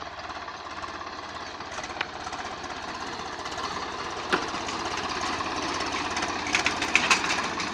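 Swaraj 744 FE tractor's three-cylinder diesel engine running at about 1000 rpm while working an 11-tine tiller, with a few sharp clacks over the steady engine note. It grows gradually louder toward the end.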